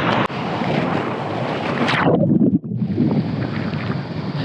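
Strong wind buffeting the microphone over rough surf and splashing water, a dense steady rush that goes briefly muffled about two seconds in.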